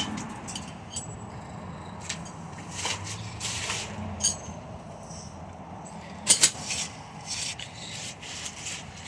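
Irregular knocks, clicks and scraping as a ceiling fan part is battered and dented, with a louder pair of hits a little after six seconds in.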